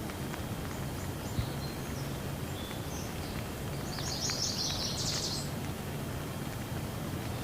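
Steady rain hiss with birds chirping over it: a few scattered short chirps, then a quick run of chirps about four to five seconds in. Occasional faint drip-like ticks.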